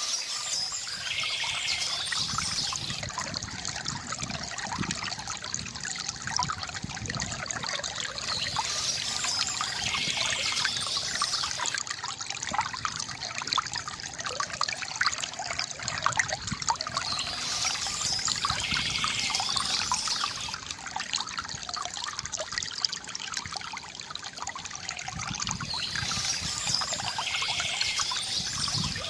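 Water trickling and splashing steadily from a bamboo fountain spout, with a brighter patch of sound coming back about every nine seconds.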